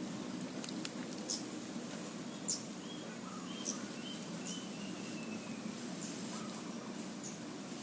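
Birds giving short, high chirps and ticks, scattered through, with a short run of brief higher notes in the middle, over a steady low background noise.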